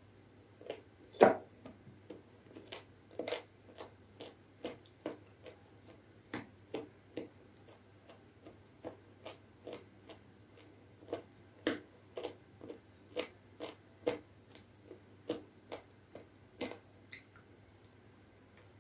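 Close-up chewing of soft khichdi and chicken curry: a run of short, wet mouth clicks and smacks, about two a second, with the loudest about a second in.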